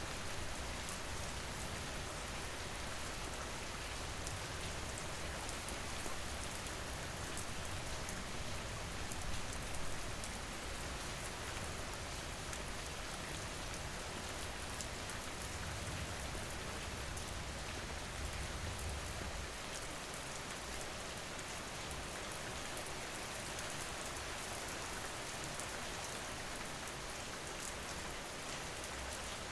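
Steady rain falling, an even hiss with fine patter of drops, with a low rumble underneath that drops away about two-thirds of the way through.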